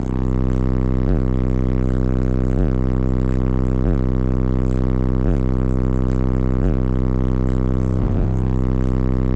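Bass-heavy music played loud through a car audio system's subwoofers: a steady low drone with a falling bass sweep about every 1.3 seconds.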